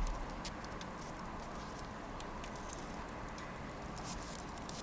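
Wood fire burning in a washing-machine-drum fire pit, giving off irregular sharp crackles and pops over a low steady hiss.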